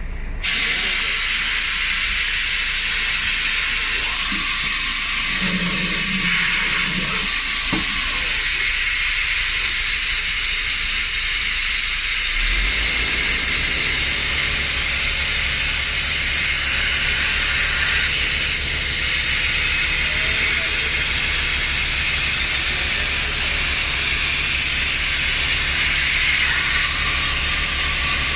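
Loud, steady hiss of compressed air during a bus tyre change, starting abruptly and running on without a break. A low, even throb joins about twelve seconds in.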